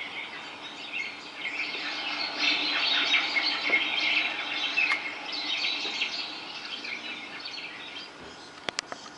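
Many small birds chirping and calling at once in dense, overlapping calls that thin out towards the end. Two sharp clicks near the end.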